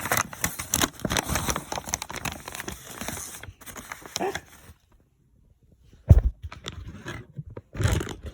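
Paper sandwich wrapper crinkling and rustling as it is handled and opened, then a pause and two dull thumps about six and eight seconds in.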